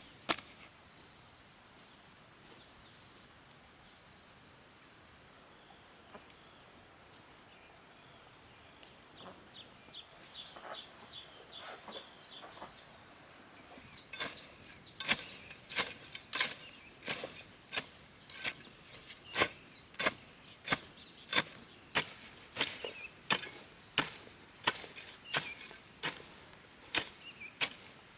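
Repeated chopping with a blade, sharp even strokes about one or two a second, starting about halfway through. Before that, quiet rural ambience with a few high, thin bird calls.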